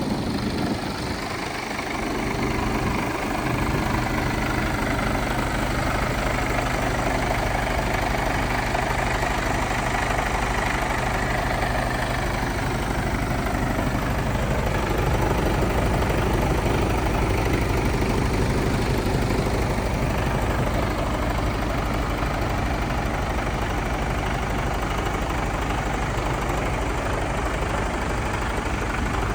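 Mercedes Actros MP5 truck's 12.8-litre straight-six diesel engine running steadily at idle. About halfway through, a higher-pitched part of the sound slides down and then holds steady.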